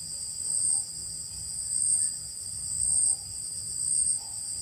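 A chorus of night insects giving a steady, high-pitched shrill that swells and fades about once a second.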